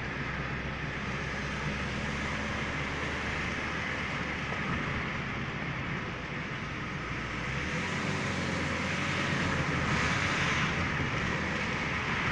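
A motor vehicle running steadily; its low hum drops away about two-thirds of the way through and the sound then grows somewhat louder.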